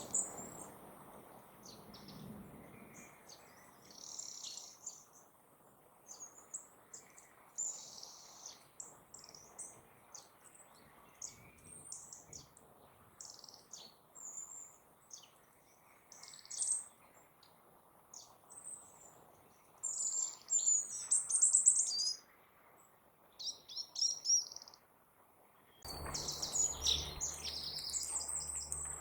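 Small birds chirping and calling in short, high notes, scattered one after another with a busier run of calls about two-thirds of the way in. Near the end the sound changes abruptly to a steady low hum.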